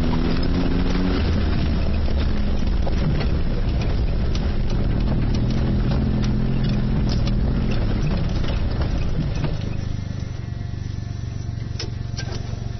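Suzuki Jimny JA22's small three-cylinder engine running under load with the revs rising and shifting, then easing off to a quieter, lower steady note about ten seconds in. A couple of sharp clicks come near the end.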